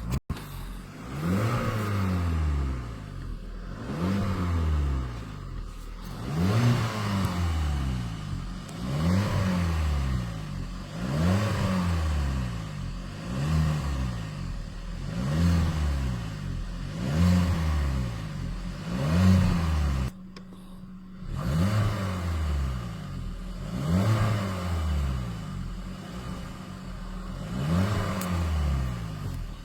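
Car engine revved over and over by pumping the accelerator pedal: each blip rises and falls back, about one every two seconds, roughly a dozen times, with a short break about two-thirds of the way through.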